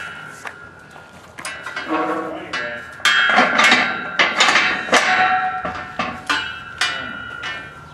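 An irregular series of sharp knocks and taps from hand work on a water pipe and its fittings, some strokes ringing briefly, busiest in the middle.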